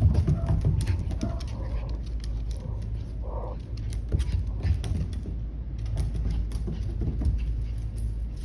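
Dogs scuffling in play: a thump at the start, then short clicks and scrapes of paws and bodies, with a brief pitched vocal sound about three seconds in.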